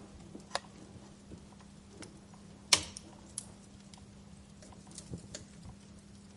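Wood fire crackling, with scattered sharp pops and one much louder snap about two and a half seconds in.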